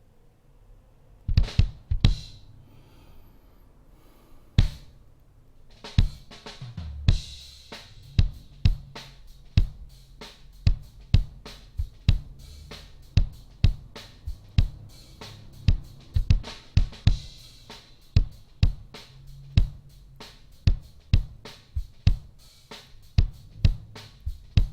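Recorded drum kit track played back: after a moment of quiet, a few scattered kick and snare hits, then from about six seconds in a steady beat of kick and snare with hi-hat and cymbals over it.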